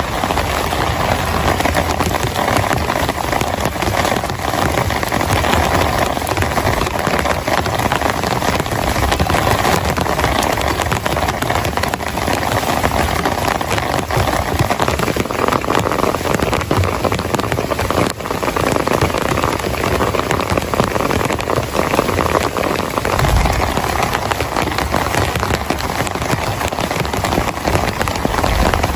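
Heavy rain falling steadily, a dense, continuous patter of drops.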